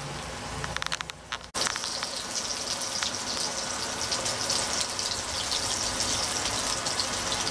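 Breaded chicken strips shallow-frying in hot sunflower oil in a pan: a steady sizzle with fine crackling, broken by a brief sudden drop about one and a half seconds in.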